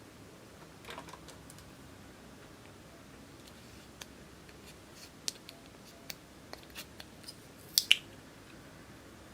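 Scattered small clicks and taps from handling small objects, with two sharper, louder clicks close together about eight seconds in.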